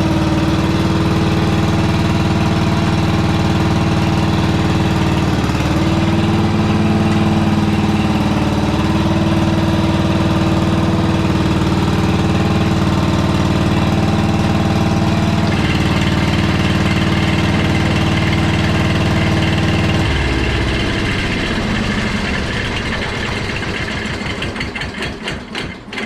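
Simplicity Landlord garden tractor engine running steadily, its spark restored by a new coil and points/condenser kit. About twenty seconds in it is shut off and winds down, its beats slowing over several seconds until it stops.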